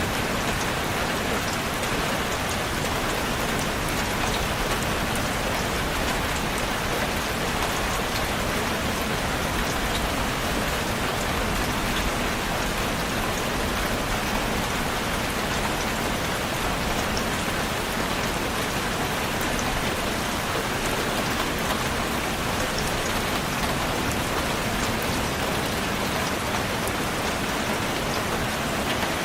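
Steady rain: a dense, even hiss of falling rain with scattered sharper drop ticks, unchanging throughout.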